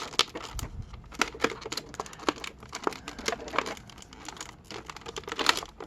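Plastic toy packaging crinkling and crackling as it is handled, with many irregular sharp clicks.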